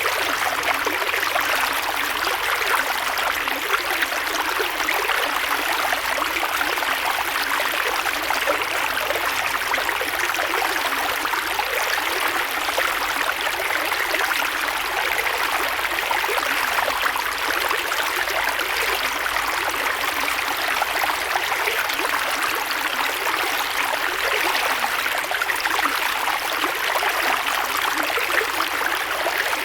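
Creek water flowing over rocks in a steady, unbroken rush with fine splashing and babbling.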